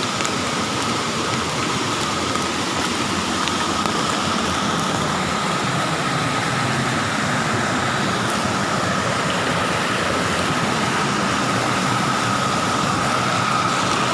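Motorcycle engine running steadily while riding, under a constant hiss of wind and road noise with a thin steady whine.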